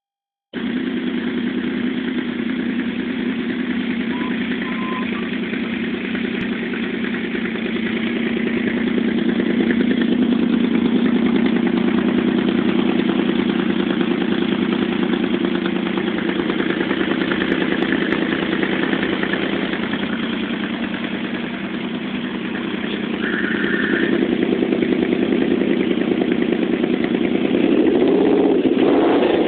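2009 Yamaha VMAX's V4 engine idling steadily through a cut-down Kerker exhaust. The engine gets louder twice, then revs briefly near the end.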